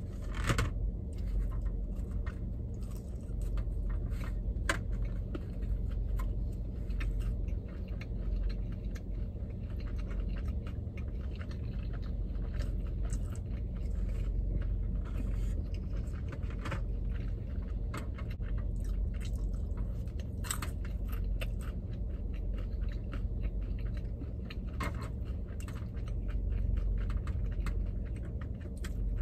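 A person chewing sushi, with many small mouth clicks and occasional crunches, over a steady low hum.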